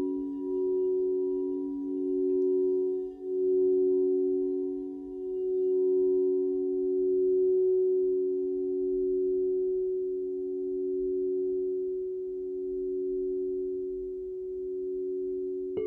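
Several crystal singing bowls ringing together in long sustained low tones that swell and fade in slow pulses as they beat against each other. Right at the end another bowl is struck, adding a higher tone.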